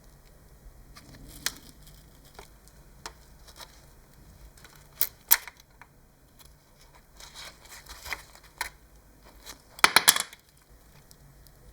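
Scattered small clicks and knocks, with a quick run of several louder knocks about ten seconds in.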